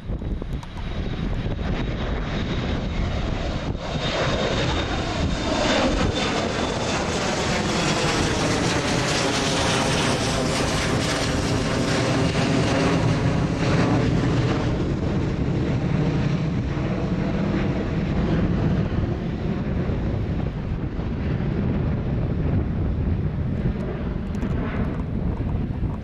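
Embraer ERJ 170 twin-turbofan jet airliner at takeoff power passing the microphone: the engine noise swells with a sweeping, phasing whoosh from about four seconds in, peaks, then settles into a lower steady rumble. Wind buffets the microphone throughout.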